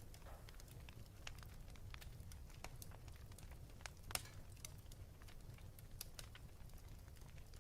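Wood fire in a fireplace crackling faintly: scattered sharp pops and snaps, the loudest about four seconds in, over a steady low rumble.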